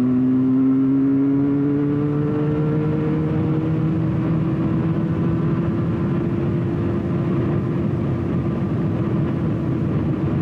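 Motorcycle engine running on the move, its pitch rising gradually over the first few seconds and then holding steady, with wind and road noise underneath.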